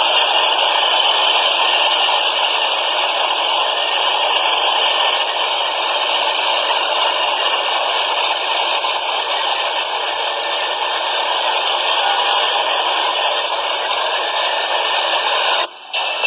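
Subway train running, a steady rattling noise with a faint constant high whine, cut off abruptly for a moment near the end.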